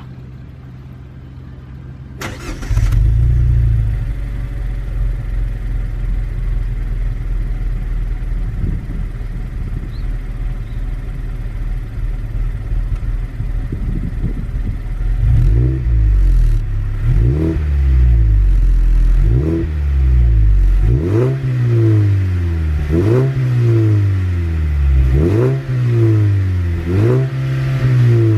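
Mazda Axela 2.0 L inline-four engine heard at the exhaust: it starts about three seconds in and idles, then from about halfway it is revved repeatedly, about seven quick blips, each rising and falling in pitch.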